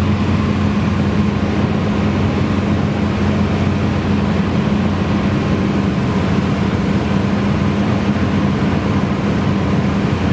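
Cessna 172's piston engine and propeller drone steadily in flight, a constant low hum with no change in power.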